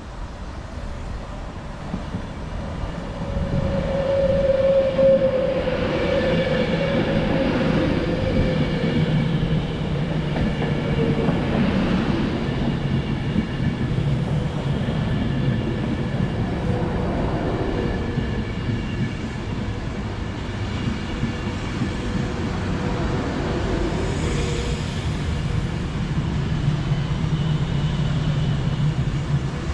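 Train moving through the station: a continuous low rumble that gets louder about three seconds in, with a thin steady whine that dips slightly in pitch.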